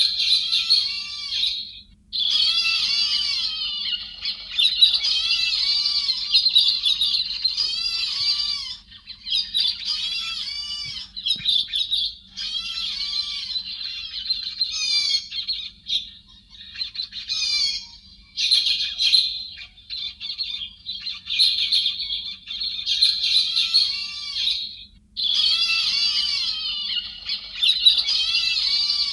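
A flock of thrushes (chim héc xoan) calling together: a dense run of overlapping short, arched, chattering calls in spells of a few seconds with brief pauses between. It is a bird-call recording of the kind played to lure a flock to traps.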